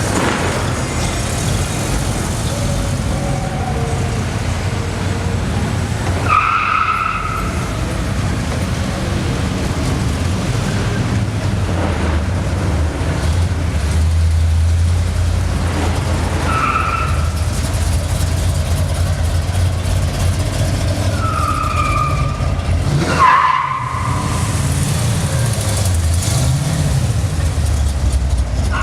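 Classic car engines running as the cars pass in a parade, a steady low rumble, with four short toots at a higher pitch spread through it.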